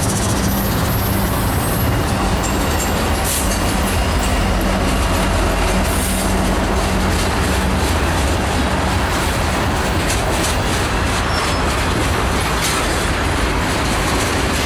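Southbound mixed freight train passing close by. A diesel locomotive's steady engine note fills roughly the first half and fades out about halfway through, leaving the freight cars rolling past with continuous steel-wheel-on-rail noise.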